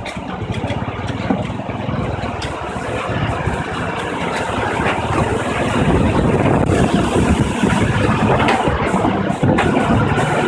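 Motorcycle engine running while the bike is ridden, a dense steady noise that gets louder about halfway through.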